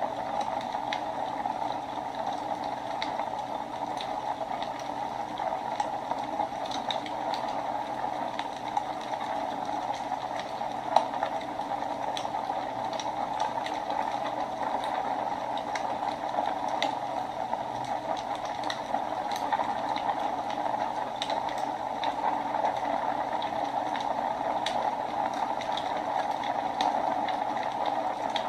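Wood fire burning in a fireplace: a steady hiss with scattered small crackles and one louder pop about eleven seconds in.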